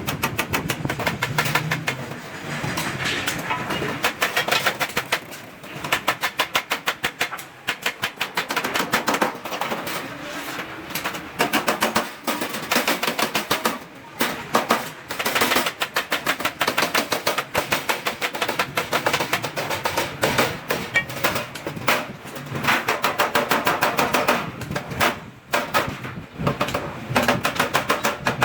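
Rapid, even hammer strikes on stainless steel sheet, metal on metal, in runs of several seconds with short pauses between.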